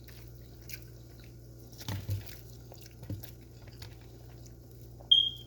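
Soft chewing and food-handling sounds with a few quiet clicks, over a steady low hum. Near the end comes one brief high ringing tone, the loudest sound.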